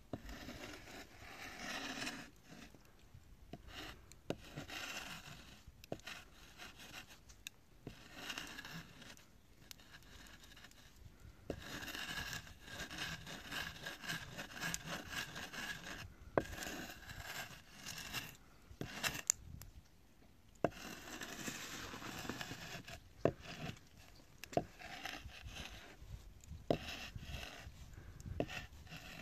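Wood scraping and rubbing in uneven strokes, with scattered sharp knocks and clicks that come more often in the second half.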